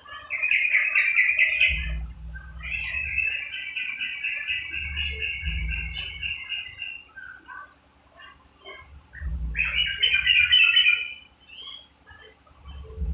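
Yellow-vented bulbul (cucak trucuk) singing in three bouts of rapid, bubbly chattering notes, with short pauses between them. A low rumble comes and goes underneath.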